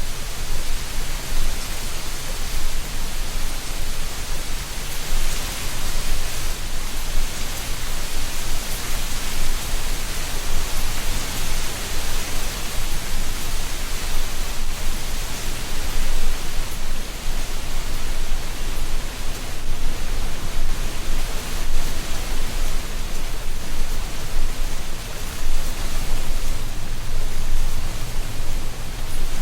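Steady wind blowing through a tree canopy, dry leaves rustling in a continuous hiss with a low rumble underneath.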